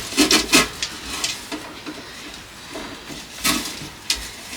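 Dishes and food containers being handled during fridge cleaning: a scattered series of short clinks and knocks, several close together near the start and a few single ones later.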